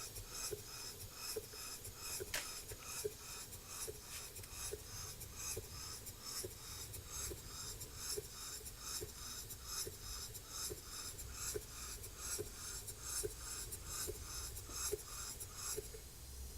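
Small model steam engine (1-inch bore, 1¼-inch stroke) running slowly and evenly: a soft exhaust chuff about two or three times a second with a light tick about once a second. There is a single sharp click a couple of seconds in, and the running rhythm stops near the end.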